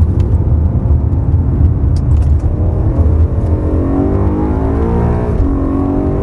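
BMW M3 engine pulling hard under full throttle out of a corner, its pitch climbing steadily, then dropping sharply with a quick upshift about five seconds in. Heavy low rumble of road and wind noise in the cabin runs underneath.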